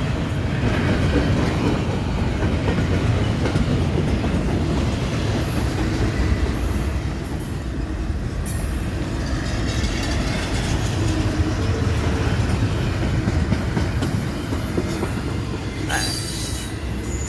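Long freight train's cars rolling past close by, a steady rumble of wheels on rail with brief high wheel squeals now and then, one near the end.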